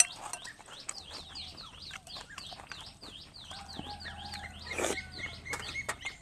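A bird calling in a quick series of high, sweeping chirps, about three a second, that stops a little past four seconds in. Small clicks of a spoon and chewing run underneath, with one short louder burst of noise about five seconds in.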